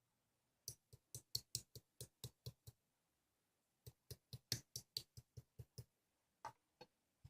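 Slime being pressed and poked, making a quick run of clicking pops about five a second, in two runs of about two seconds each, then a few single pops near the end.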